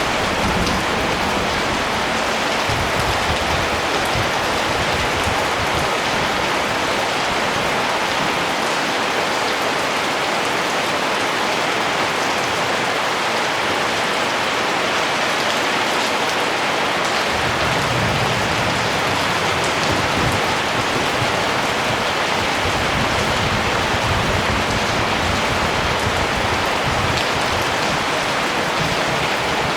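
Steady rain falling, an even hiss of drops with no pauses, and a low rumble coming and going underneath.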